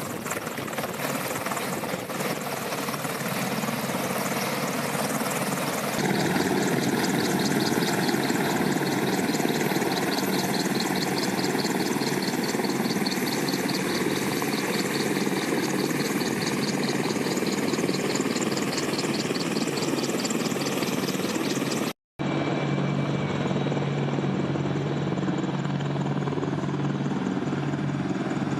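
Military helicopters (CH-47 Chinooks and AH-64E Apaches) running on the ground, turbine engines and rotor blades making a loud, steady noise with a fast, even pulse from the blades. The sound changes abruptly about six seconds in and drops out for a split second about three-quarters of the way through, at cuts between shots.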